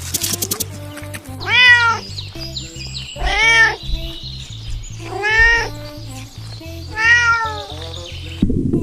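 A cat meowing four times, about two seconds apart, each meow rising then falling in pitch, over background music with a repeating bass line.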